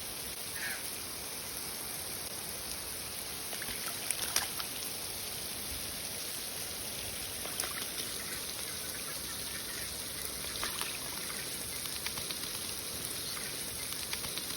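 Water running steadily from a garden hose into a bird bath, with a few brief splashes as an Australian magpie bathes in it.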